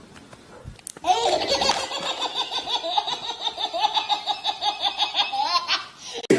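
High-pitched laughter in a quick, even run of about five beats a second. It starts about a second in and stops shortly before the end.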